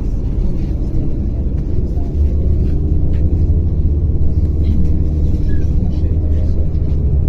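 Simulated MAZ 105 bus diesel engine running with a steady low drone, which gets stronger about two seconds in as the bus pulls away.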